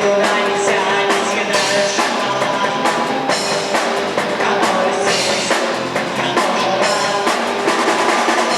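A rock band playing, with the drum kit prominent: regular bass drum and snare drum strikes under sustained pitched instruments.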